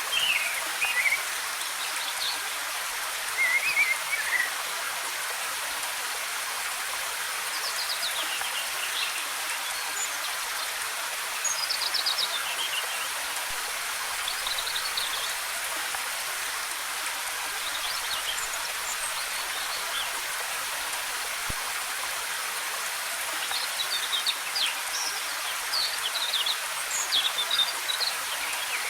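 Steady rush of a waterfall, with forest birds chirping every few seconds in short runs of quick high notes, busiest near the end.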